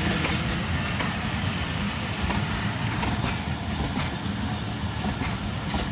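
Passenger coaches of the Al-Fareed Express rolling past close by: a steady rumble of wheels on the rails.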